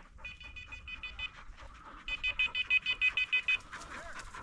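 Electronic beeper on a hunting dog's collar sounding two quick runs of short, high-pitched beeps, about seven a second.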